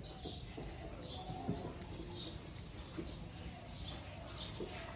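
Cricket chirping steadily: a high, evenly pulsing chirp that keeps on without a break, with faint voices in the background.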